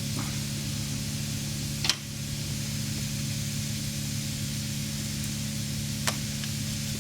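Steady hiss over a low, even hum, broken by two sharp clicks: one about two seconds in and one about six seconds in.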